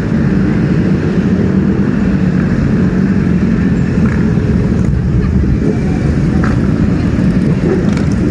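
Superbike engines running steadily, a loud continuous low-pitched engine sound with no sharp revs.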